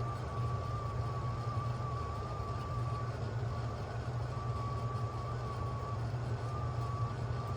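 1993 Bard 2.5-ton wall-hung heat pump running in cooling mode: a steady low hum with a thin, slightly wavering whine above it.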